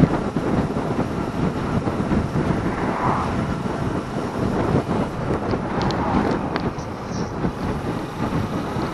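Wind rushing over the microphone of a moving Suzuki Inazuma GW250 motorcycle, a steady roar of wind and riding noise with no distinct engine note standing out.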